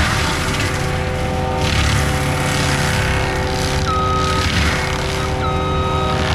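Forestry skid steer mulcher running steadily with its diesel engine under load, with swelling surges of grinding noise as the mulching head works. A brief high tone comes in twice in the second half.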